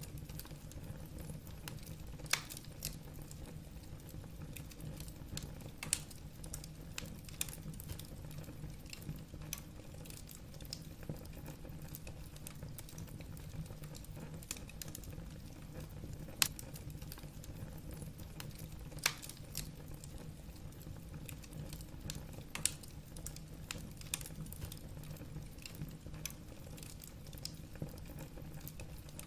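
Wood fire burning in a fireplace: a low steady rush of flames with frequent irregular crackles and snaps of burning logs, a few sharper pops standing out.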